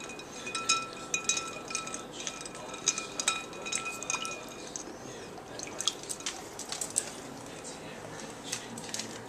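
Dog splashing its muzzle in a bowl of water with ice cubes: water sloshing and dripping, with ice clinking against the bowl in quick, irregular splashes.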